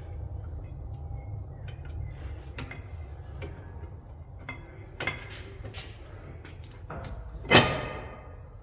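Metal-on-metal clinks and taps as brake parts and hardware are handled and fitted, ending with one louder ringing metal clank about seven and a half seconds in.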